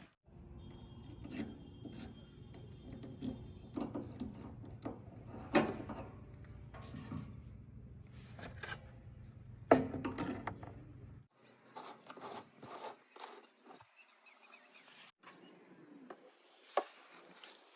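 Diesel engine of a backhoe loader running with a low, steady rumble under metallic clanks and knocks, with two louder bangs, one about five seconds in and one near ten. The engine rumble cuts off abruptly about eleven seconds in, leaving scattered clicks and rubbing.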